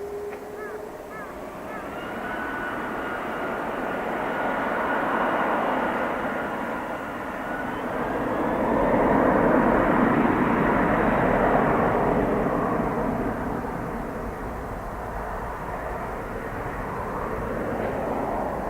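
Boeing 767-300's twin jet engines at takeoff power as the airliner goes by: a steady whine over the roar, the roar swelling to its loudest about ten seconds in and then slowly fading.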